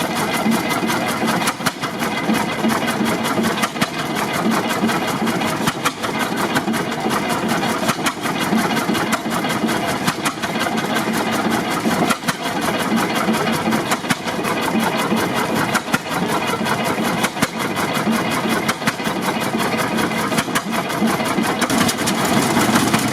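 1927 Eagle 40 hp tractor engine running steadily with a busy, rapid mechanical clatter.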